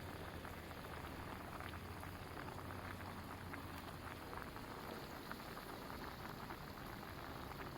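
Faint, steady crackling and bubbling of food cooking over a campfire, a fine patter of small pops over a soft hiss.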